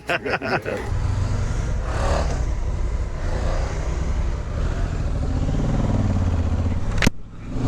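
Motorcycle engine running steadily while riding. About seven seconds in it is broken by a sharp click and a brief drop.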